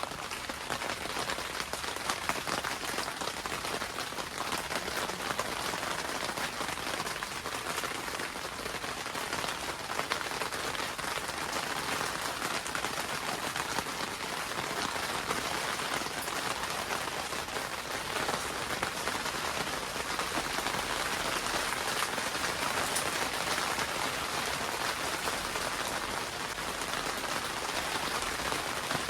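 Steady rain pattering on a greenhouse roof, heard from inside the greenhouse: a dense, even patter of many small drop ticks that swells a little in the middle.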